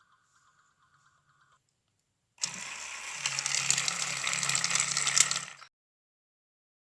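Homemade mini mixer grinder's small motor switched on for about three seconds, running with a dense clattering rattle over a low hum, then cut off suddenly.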